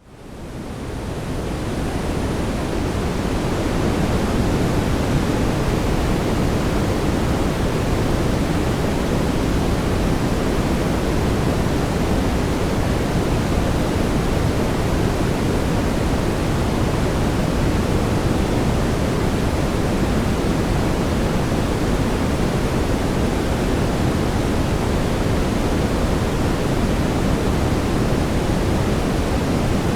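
Synthesized brown noise: a steady, deep rushing hiss with most of its weight in the low end. It fades in from silence over the first few seconds, then holds level.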